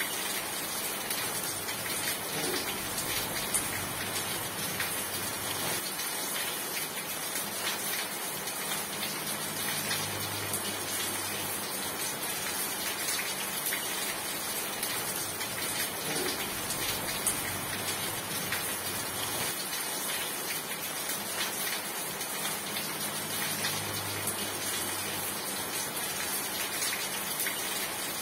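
Steady rain falling, a dense patter of drops that goes on without a break.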